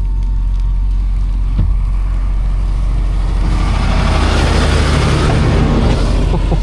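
Ram TRX pickup driving through snow, heard from inside the cab: a steady low engine and road rumble. A broad hiss swells up about halfway through.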